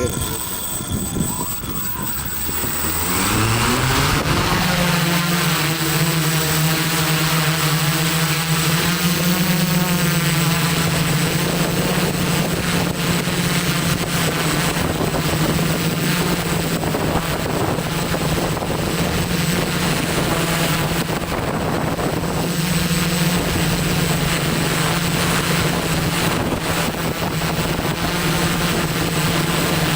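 ZeroUAV Steadi470 multirotor drone's electric motors and propellers spinning up over the first few seconds, their pitch rising, then running at a steady propeller hum. Wind rushes on the microphone throughout.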